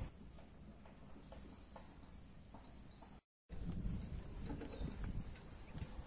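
A bird calling a quick series of short rising chirps, about seven in under two seconds. After a break, footsteps thud irregularly on the wooden planks of a suspension bridge, with faint bird chirps now and then.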